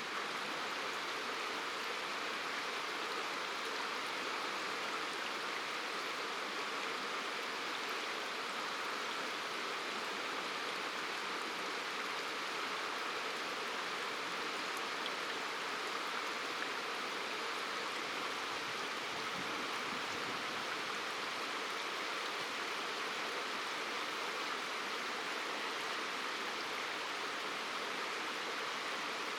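Steady rush of a river's flowing water, an even hiss with no breaks.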